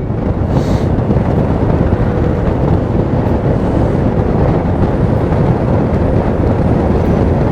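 Steady wind rush over the microphone with the running engine and road noise of a Honda Gold Wing motorcycle under way.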